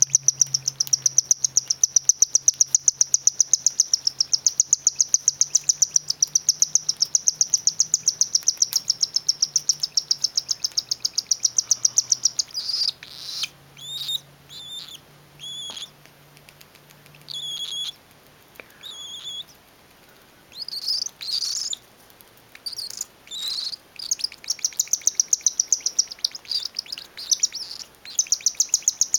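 Baby cockatiel's rapid, rhythmic food-begging calls, a fast string of high buzzy pulses made while it is being fed. About twelve seconds in they break into separate short chirps, and the fast pulsing begins again near the end.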